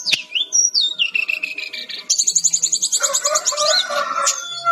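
Brown-chested jungle flycatcher singing: a run of high whistled notes that slide downward, then about two seconds in a fast, even trill of about six or seven notes a second with lower warbling notes beneath it.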